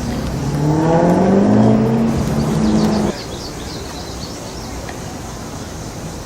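A car engine accelerating hard, its pitch climbing steadily for about three seconds, then cut off abruptly, leaving a lower steady background noise.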